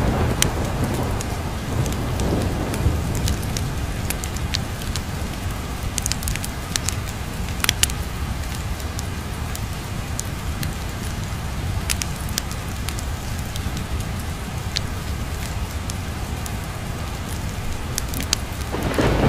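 Steady rain with the sharp pops and crackles of a wood fire scattered through it. A roll of thunder is dying away at the start, and another begins to build near the end.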